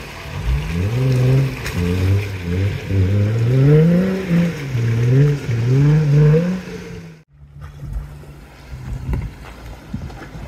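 Jeep Wrangler's V6 engine revving up and down over and over as it pulls through a muddy rut, its pitch rising and falling every second or so. About seven seconds in it cuts off abruptly, giving way to a lower, steadier engine note with a few knocks.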